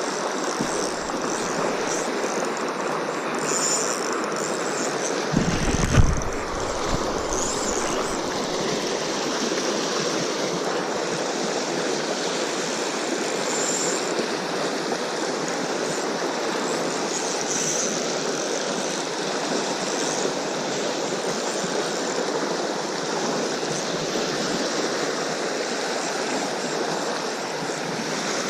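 Steady rush of fast-flowing river water, with a brief low thump about six seconds in.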